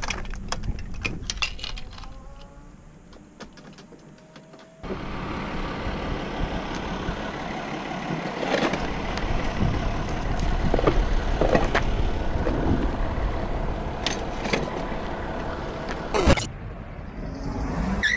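Motorcycle running with wind noise on a rider's camera, a steady roar of noise that cuts in abruptly about five seconds in. There is a sharp knock near the end, where the sound changes suddenly again.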